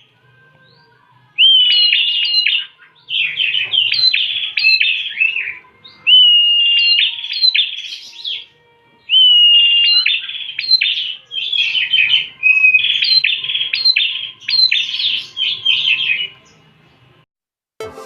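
Prinia (prenjak) song in about six loud bursts with short pauses: phrases that often open with a held steady whistle and run into a rapid string of sharp chirping notes, stopping about a second before the end.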